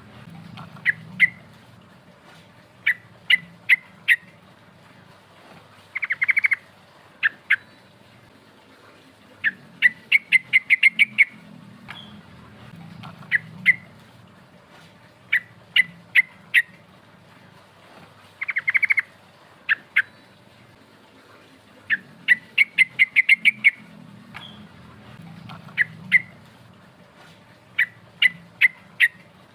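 Yellow-vented bulbul (trucukan) singing: bright, short chirping notes in quick runs of five to eight, broken by brief pauses, over and over. It is a lure song of the kind used to call up rival birds.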